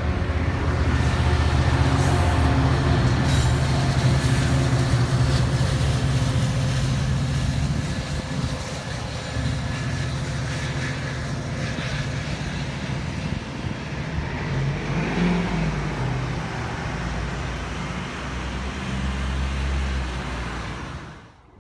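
Exo commuter train of bilevel coaches passing, a steady rumble of wheels on rails, with the push-pull locomotive going by at the rear. The sound is loudest in the first eight seconds and somewhat lower after that.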